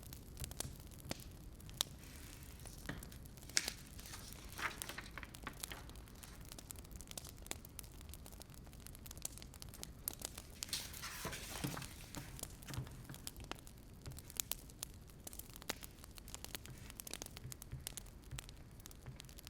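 Wood fire crackling, with frequent small pops and snaps over a low steady hum. Two longer rustling, crinkling stretches stand out, one about four seconds in and one around the middle.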